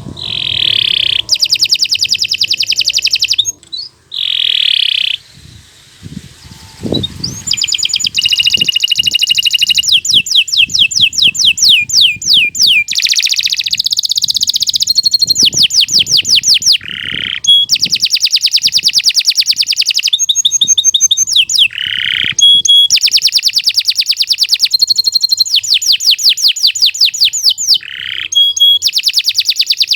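Domestic canary singing a long, loud song of fast trills and rolling phrases, each phrase a rapid run of repeated notes, with a few short pauses in the first several seconds.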